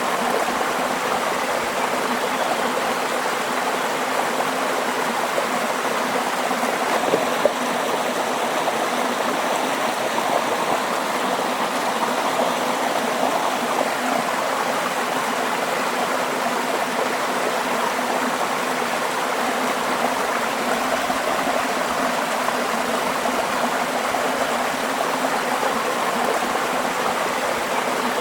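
Water flowing steadily in a stream, a continuous even rushing and babbling.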